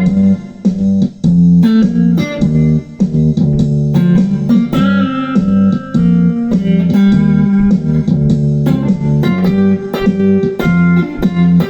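Three-string cigar box guitar with a black Cohiba cigar box body, played as a run of plucked notes with a strong low, twangy drone, and a few higher notes bent about halfway through.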